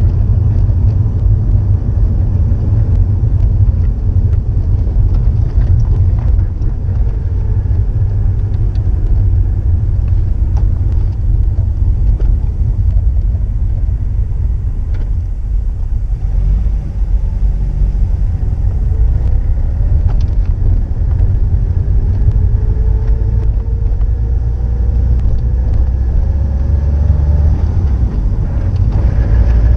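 Exhaust note of a GDB Subaru Impreza WRX STI's EJ20 turbocharged flat-four through an STI Genome muffler: a loud, deep, continuous engine sound whose pitch climbs slowly through the second half.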